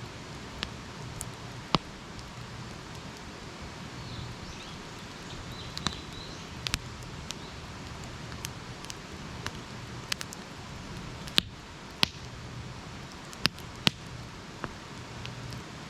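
Wood campfire burning, with sharp crackles and pops over a steady hiss. There are about a dozen pops, and several of the loudest come in the second half.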